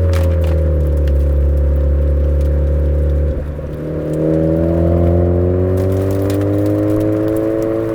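Exhaust note of a Suzuki Swift Sport ZC33S with a Fujitsubo aftermarket exhaust, its 1.4-litre turbocharged four-cylinder driving downhill. The pitch falls for about three seconds, the sound dips briefly, then the note climbs steadily as the car accelerates.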